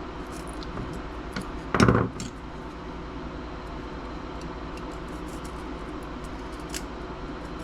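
Light clicks and clinks of small metal laptop parts being handled and pried apart, with one louder clunk about two seconds in, over a steady low hum.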